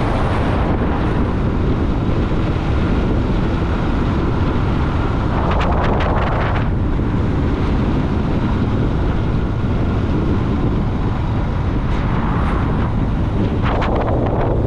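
Wind buffeting the microphone over the steady running of a Yamaha Virago V-twin motorcycle at riding speed, with two brief swells of louder rushing noise, about six seconds in and near the end.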